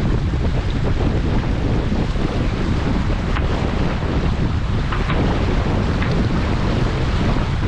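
Wind buffeting the microphone aboard a sailing yacht under way, over the rush of sea water, with a few faint clicks partway through.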